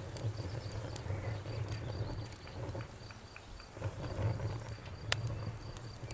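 Campfire burning: a low steady rumble of the flames with scattered crackles and pops, one sharper pop about five seconds in. Crickets chirp in a thin, pulsing high tone behind it.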